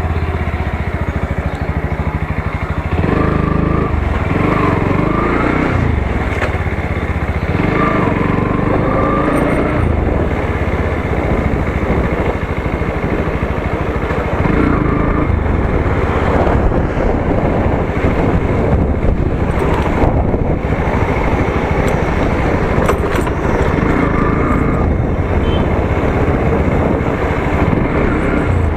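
Motorcycle engine running while riding, its pitch rising and falling with the throttle, over a steady rush of road and wind noise that takes over in the second half.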